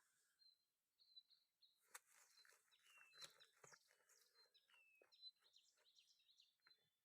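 Faint songbirds singing, with short repeated high chirps and a few falling whistles, over scattered soft clicks and scuffs.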